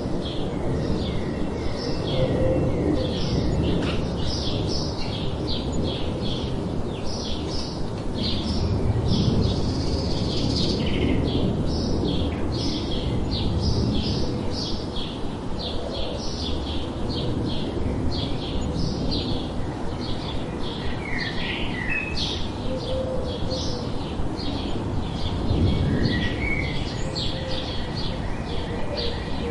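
Birds chirping busily, many short rapid notes overlapping without pause, with a few lower sliding calls now and then, over a steady low background noise.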